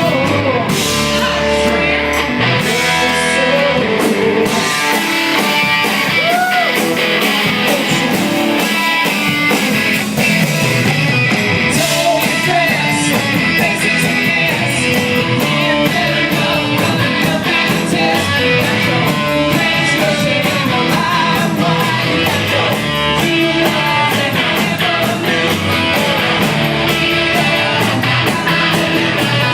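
Live rock band playing loudly, electric guitar to the fore, with singing and a steady drum beat.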